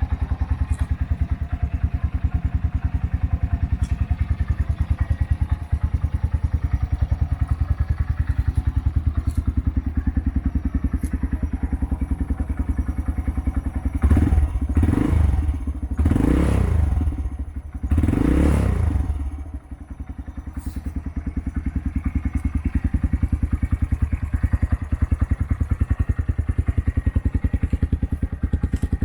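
2015 Honda Grom 125's single-cylinder four-stroke engine idling with a steady, even pulse. About halfway through, the throttle is blipped three times in quick succession, the pitch rising and falling each time, before the engine settles back to idle.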